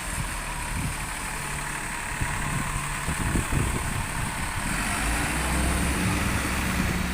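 Diesel bus engine running close by, growing louder about five seconds in as the bus pulls up, over a steady hiss of wind and rain.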